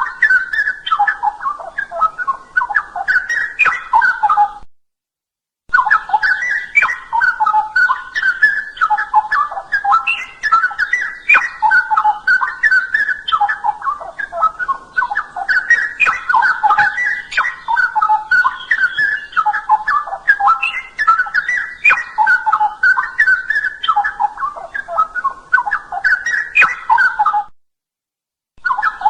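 Straw-headed bulbul (cucak rowo) singing a loud, continuous run of rich warbling phrases, breaking off to complete silence for about a second twice: about five seconds in and near the end.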